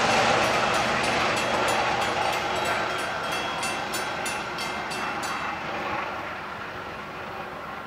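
Metro-North Shoreliner passenger train moving away after passing, its wheels clicking in a steady rhythm over the rail joints. The sound fades all through, and the clicking stops about five and a half seconds in.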